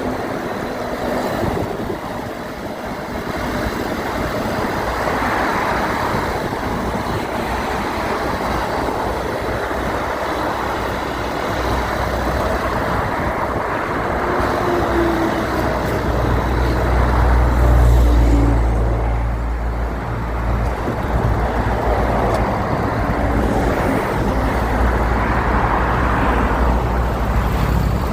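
Highway road traffic passing steadily, with a deep rumble that builds and peaks about two-thirds of the way through, as of a heavy vehicle going by.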